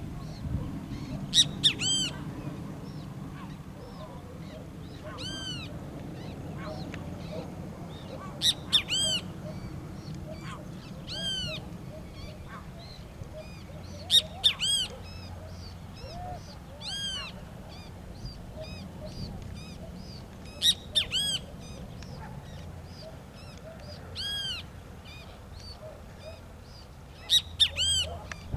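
A bird calling over and over in short phrases of two or three arched, ringing notes, a few seconds apart, over a steady low hum.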